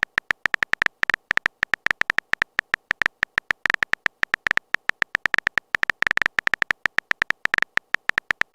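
Typing sound effect of a text-message chat: a quick, irregular run of short keyboard clicks, several a second.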